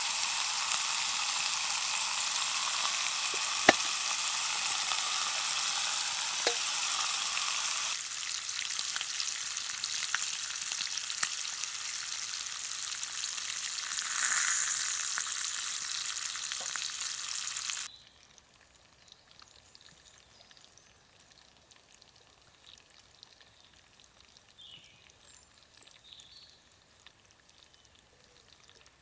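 Sausages and bacon sizzling in a frying pan on a Trangia alcohol stove, with a few sharp clicks of a utensil against the pan. The sizzle steps down slightly about eight seconds in and cuts off abruptly about two-thirds of the way through. The rest is near-quiet outdoor air with a few faint high chirps.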